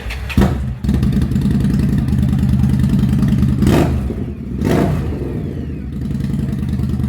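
Superbike engine running steadily, with two short louder bursts about three and a half and four and a half seconds in.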